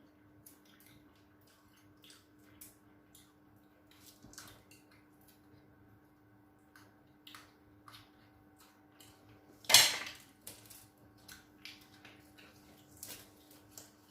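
Dishes and cutlery clinking now and then as people eat, with one loud clatter about ten seconds in. A faint steady hum runs underneath.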